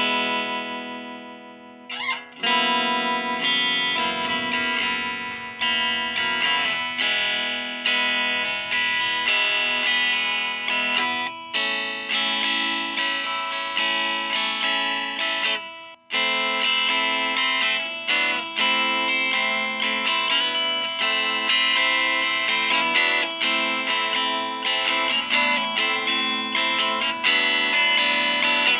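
Chapman ML3 Modern electric guitar on its neck pickup, played through a VOX Lil Night Train 2-watt all-tube amp set to a clean tone, mixing lead lines and rhythm. A chord rings and fades at the start. Then comes a run of picked notes, broken briefly about halfway through.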